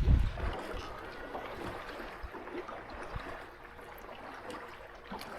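Wind and choppy water lapping against a fishing boat's hull, with a low thump just at the start.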